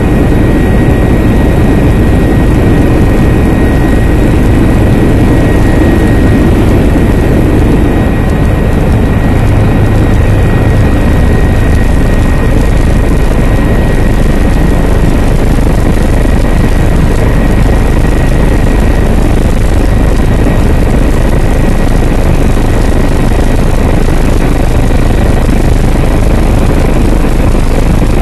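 Helicopter in flight, its rotor and engine noise loud and steady, with a constant high whine running over the rumble.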